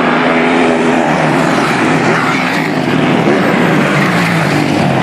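Motocross bike engines revving at race pace, loud and continuous, their pitch rising and falling as the riders work the throttle.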